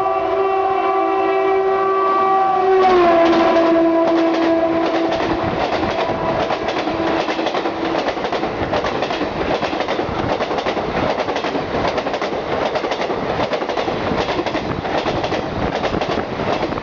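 WCAM3 electric locomotive's horn sounding continuously as the Deccan Queen express passes at speed, its chord dropping in pitch about three seconds in as the locomotive goes by, then fading out. After that the coaches rush past with rapid, rhythmic clickety-clack of the wheels over the rail joints.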